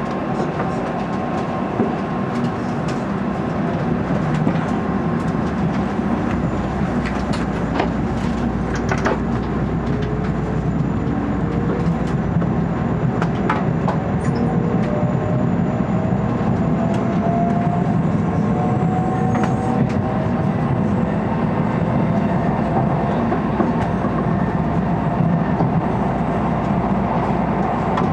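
N700A Shinkansen train pulling away from a station, heard from inside its vestibule: a steady low running rumble with a faint whine that rises slowly in pitch as it gathers speed, and scattered clicks from the wheels.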